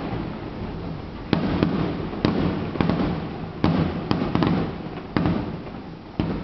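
Aerial firework shells bursting in quick succession: about nine sharp bangs, a half second to a second apart, each trailing off in a rumbling echo.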